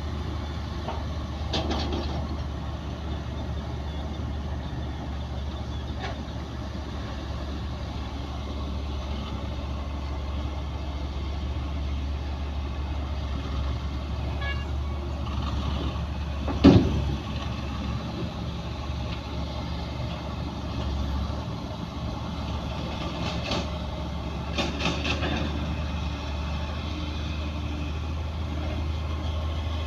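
Heavy diesel earthmoving machinery running with a steady low drone. One loud bang about halfway through, and a few fainter knocks near the start and end.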